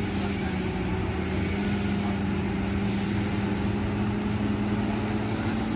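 Wheel loader's diesel engine running steadily with a constant low hum.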